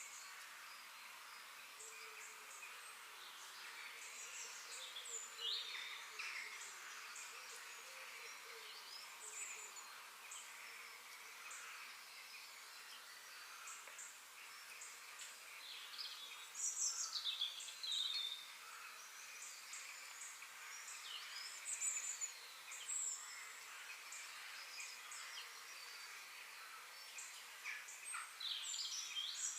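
Several small birds chirping and singing in short, overlapping calls over a steady faint hiss of background noise, with the calls busiest about halfway through and again near the end.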